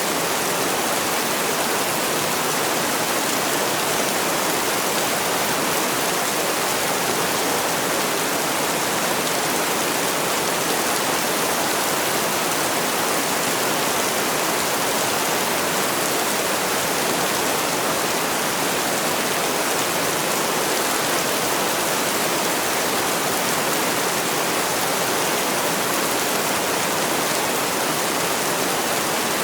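Heavy rain falling steadily: an even, unbroken hiss with no single drops or gusts standing out.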